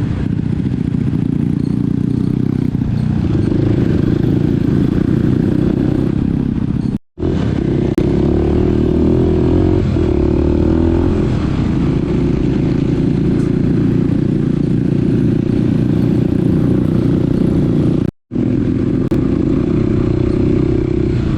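Small dirt bike's engine running steadily while being ridden, with rattle and clatter from the ride. The sound drops out abruptly twice, about seven and eighteen seconds in.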